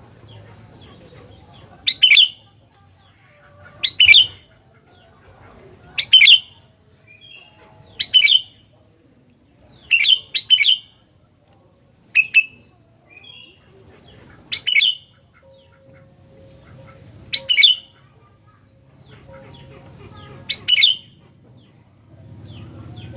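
Sooty-headed bulbul (kutilang) calling: loud, short, sharp calls repeated about every two seconds, some doubled. The gaps widen to about three seconds in the second half, with a few softer chirps between.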